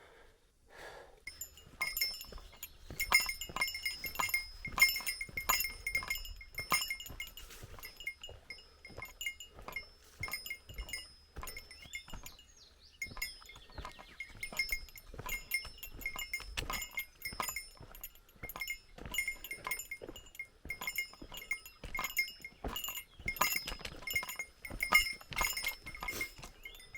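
A small bell jingling over and over in step with footsteps on a mountain trail, about two steps a second, after a quiet first second or so.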